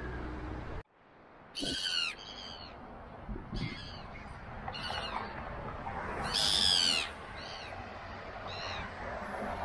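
A low rumble cuts off suddenly just under a second in. Then a bird calls repeatedly: about seven short, downward-sliding calls, the longest and loudest coming about six seconds in.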